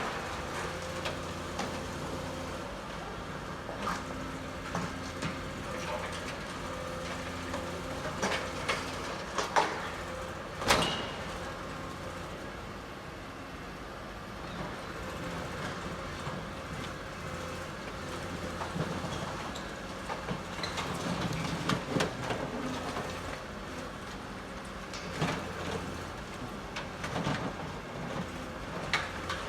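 Heavy machinery running steadily, with scattered metallic clanks and knocks; the sharpest knock comes about eleven seconds in.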